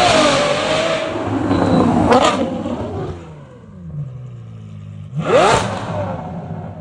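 High-performance car engine free-revving. A high rev falls away in the first second, a quick blip comes about two seconds in, and the engine settles lower and quieter before a sharp rev-up and drop about five seconds in.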